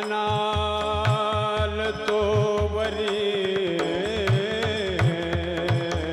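Devotional kirtan music: a singer holds a long note that breaks into a wavering ornament about four seconds in, over repeated drum strokes with gliding bass and sharp cymbal clicks.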